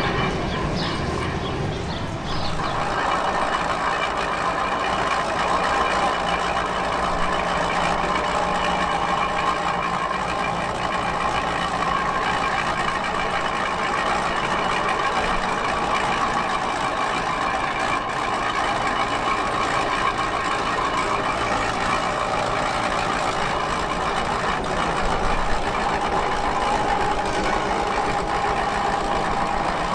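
A vehicle running steadily: a constant drone with several held tones that does not change for the whole stretch.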